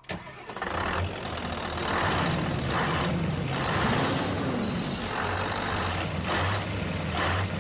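Vehicle engine running steadily with a low hum, overlaid by hissing noise that swells and fades every second or so.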